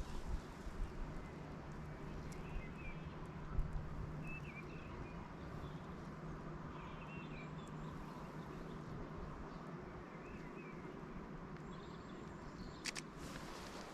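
Faint, scattered bird chirps over a steady low outdoor hush, with a sharp double click near the end.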